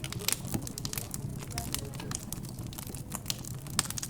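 Wood fire crackling, with frequent irregular sharp pops, over a low murmur of background chatter.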